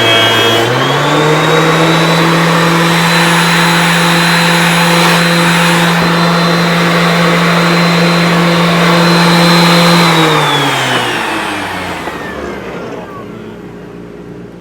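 Helical-head Oliver thickness planer running loudly with a steady hum and hiss, its pitch stepping up slightly about a second in and holding steady. About ten seconds in it is switched off and winds down, the pitch sliding lower as it fades.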